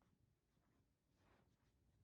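Near silence: faint room tone with a low hum and a soft swish about a second in.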